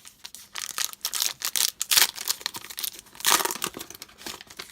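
Foil trading-card pack wrapper being torn open and crinkled by hand, in a run of irregular crackles, loudest about two and three seconds in.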